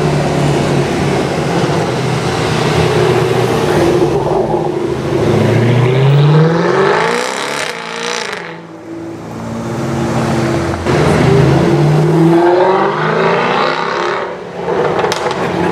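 Overfinch-tuned Range Rover Sport SVR's supercharged V8 through a titanium exhaust, accelerating twice. The engine note climbs in pitch, drops back to a lower steady note, then climbs again before falling away near the end.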